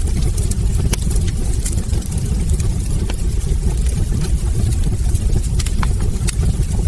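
Wood fire burning in a fireplace: a steady low roar with frequent sharp crackles and pops from the burning logs, irregular and several a second.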